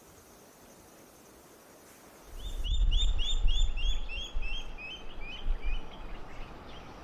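A wading bird calling a rapid series of about a dozen short whistled notes, some five a second, gently falling in pitch and fading out. A low rumble of wind on the microphone starts just before the calls.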